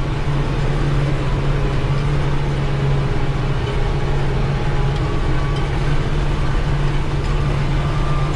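Tractor engine running steadily as a drone, heard from inside the closed cab.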